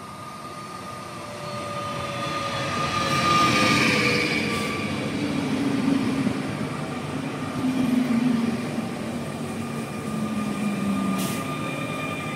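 A Pesa Elf electric multiple unit coming into the station. It grows louder over the first few seconds as it approaches, with an electric whine that falls in pitch, then carries on running past steadily.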